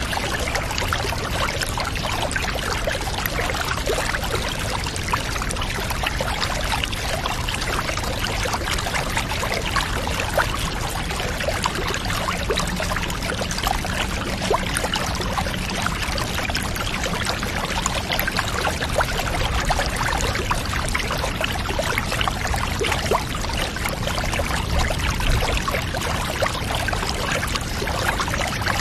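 Bathwater running and trickling steadily, an even wash of water noise with fine splashy ticks and no change in level.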